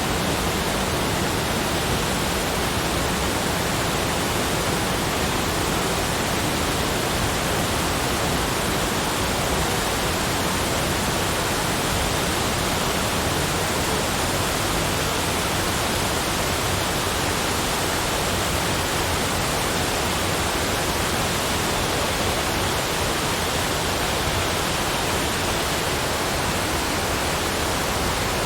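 Continuous, unchanging rushing noise spread evenly from deep rumble to high hiss, with no separate events.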